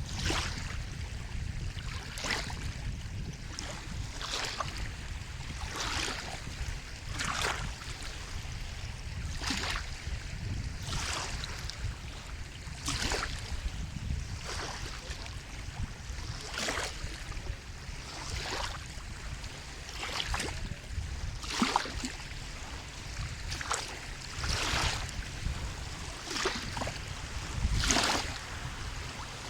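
Sea water lapping and splashing in short washes every one to two seconds over a steady low rumble of surf and wind.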